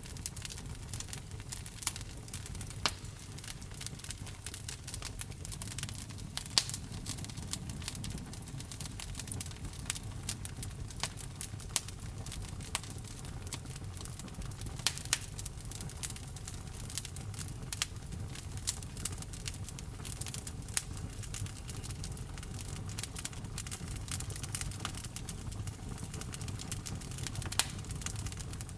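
Wood fire burning in a fireplace: logs crackling and popping in irregular sharp snaps over a steady low rush of flame.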